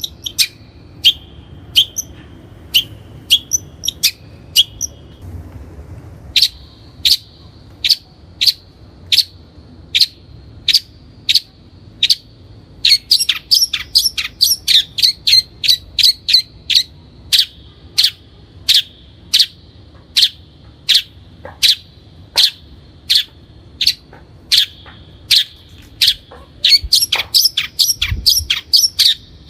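Long-tailed shrike (Lanius schach) giving a long series of short, sharp calls, about one to two a second. There is a brief pause about five seconds in, and the calls speed into quicker runs around halfway through and again near the end.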